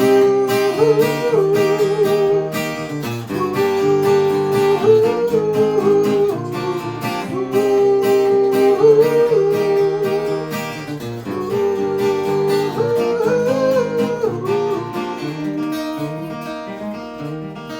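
Acoustic guitar picking and strumming chords in an instrumental passage of a folk song, with a held, slightly wavering melody line repeating in phrases about every four seconds and getting softer near the end.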